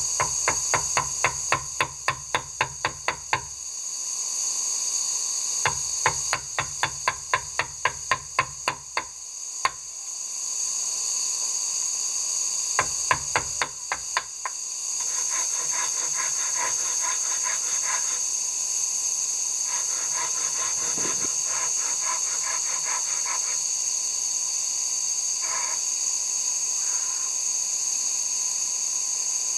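Hand-tool work on wood: rapid, evenly spaced strokes at about four a second, coming in three runs of a few seconds each, then lighter quick clicking, over a steady high hiss.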